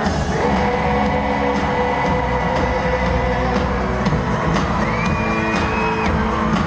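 Live pop music from a band in a concert hall, recorded from among the audience, with a steady beat. About five seconds in, a high note slides up and is held for about a second.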